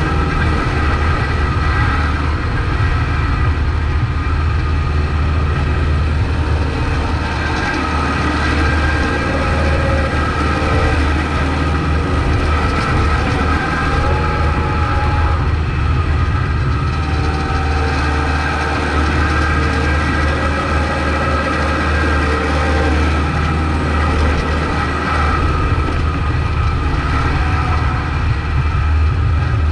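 Kubota MX5200 tractor's diesel engine running steadily while plowing snow with a straight blade, a low drone with a steady whine above it.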